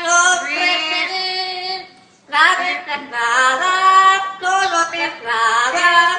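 A high-pitched voice singing in long held phrases, breaking off for a moment about two seconds in.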